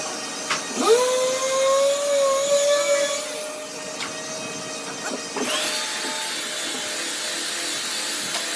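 Electric power tool spinning up and running steadily, twice: once about a second in until a little past the middle, then again at a higher pitch from about two-thirds of the way through, with a few sharp clicks between.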